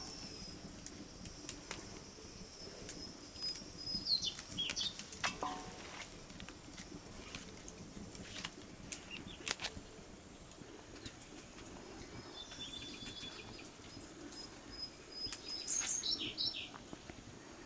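Birds chirping in short bursts, about four seconds in and again near the end, over scattered light clicks and knocks.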